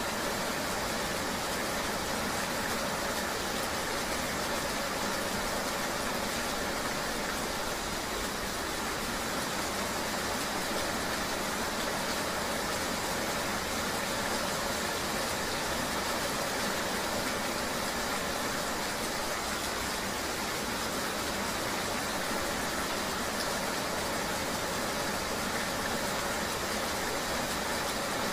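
Steady rain ambience: an even, unchanging rushing noise with a low, vehicle-like rumble underneath.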